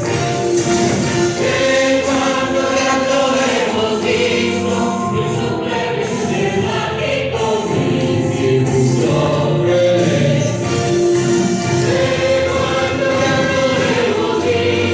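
A group of voices singing a musical-theatre song together over instrumental accompaniment, with long held notes.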